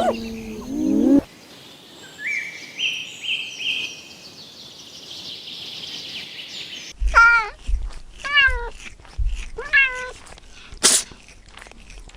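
Domestic cat meowing: three short meows in the second half, about a second and a half apart, after a deep animal call that cuts off about a second in and a stretch of faint high chirps.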